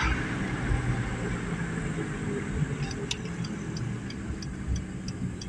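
Car engine and road noise heard from inside the moving car's cabin, with an even ticking of about three clicks a second that starts about three seconds in.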